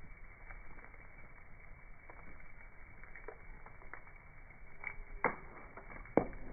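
Fire crackling in slowed-down slow-motion audio: scattered dull pops and ticks over a low hiss, with two louder pops about five and six seconds in.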